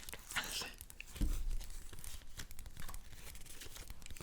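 Sheets of paper being handled, with crisp tearing and crinkling crackles, and a dull knock about a second in.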